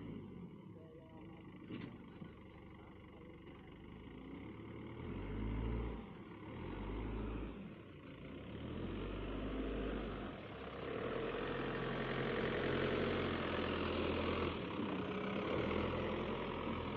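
Heavy diesel engines running, revving up and easing off in long swells, with the loudest stretch about eight seconds in until near the end.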